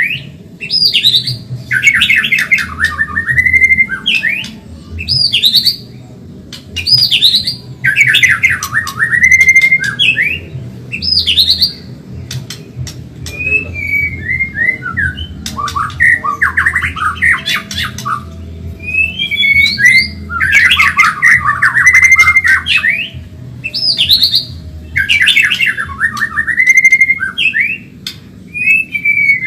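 White-rumped shama (murai batu, Medan type) singing hard: loud phrases repeated every couple of seconds, each a fast run of notes ending in rising and falling whistles, over a steady low hum.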